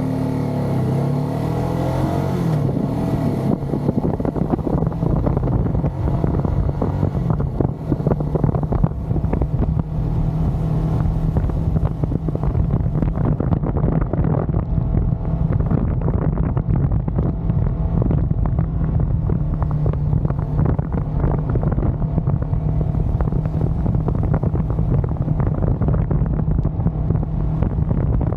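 Motorcycle engine running while riding, its pitch shifting over the first few seconds and then holding steady, with wind noise on the microphone.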